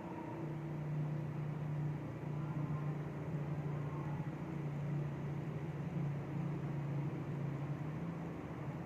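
A steady low machine hum over a hiss of background noise.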